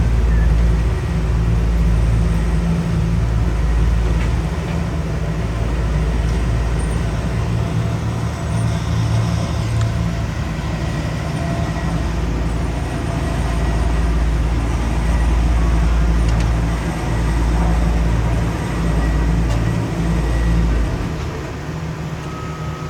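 Heavy diesel paving equipment running with a steady low drone, swelling and easing slightly in loudness.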